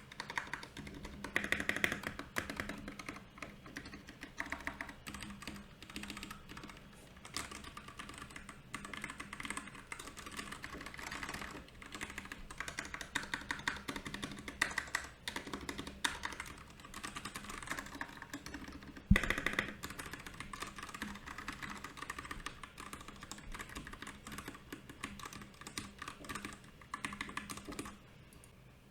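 Fast, continuous typing on a Royal Kludge RK68 mechanical keyboard, a steady stream of key clacks with one noticeably louder clack about two-thirds of the way through.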